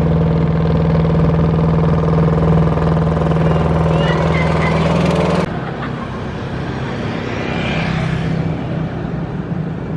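Engine of a klotok, a traditional wooden river boat, running steadily; about five and a half seconds in the sound cuts abruptly to a quieter, rougher engine.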